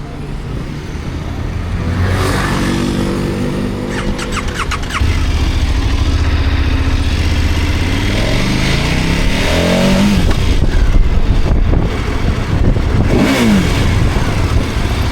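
KTM motorcycle engine running and accelerating, its note climbing in pitch twice, about eight seconds in and again near the end. A few sharp clicks come about four seconds in.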